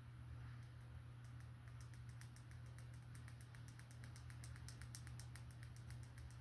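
A quick run of light, crisp clicks, several a second, made by hand in close ASMR-style handling, over a low steady hum.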